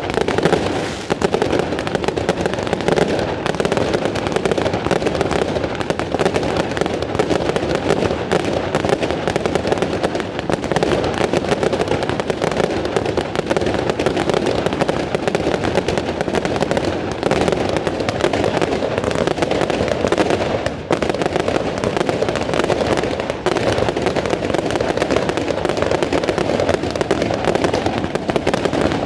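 Aerial fireworks display going off in a dense, continuous barrage of rapid overlapping bangs and crackles, with barely a break throughout.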